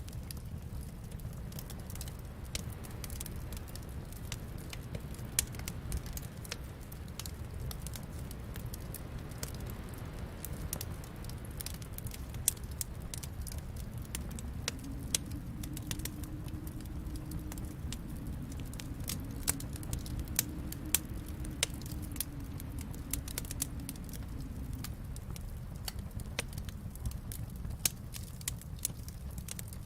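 Wood fire crackling in a fireplace: a steady low rumble with irregular sharp pops and snaps. A faint, wavering low tone joins about halfway through and fades near the end.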